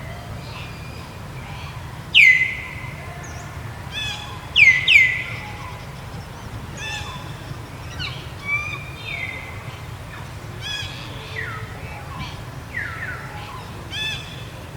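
Birds calling: a string of sharp, high calls that sweep steeply down in pitch. The loudest comes about two seconds in and a close pair follows near five seconds, over a steady low hum.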